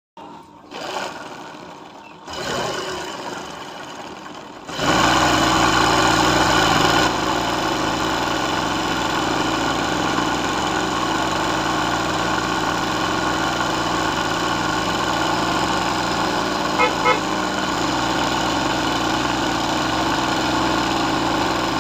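Electric sewing machine stitching embroidery: uneven at first, then running steadily and fast from about five seconds in.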